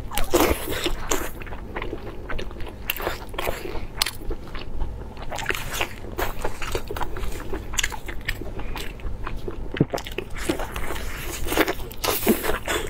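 Close-miked chewing and biting of a lamb-intestine sausage stuffed with meat: wet mouth smacks and irregular sharp clicks as the casing and filling are chewed.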